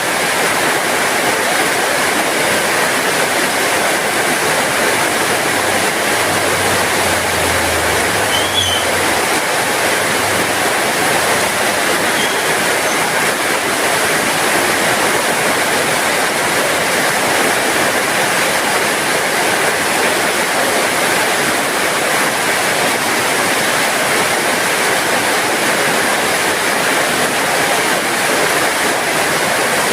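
Steady heavy rain falling, an even hiss, with a faint low hum for a few seconds about a quarter of the way in.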